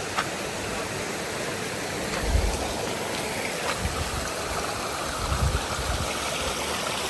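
Small stream flowing steadily over stones where the water comes out of the rocks, a continuous rush of water. A few low bumps sound on the microphone around the middle.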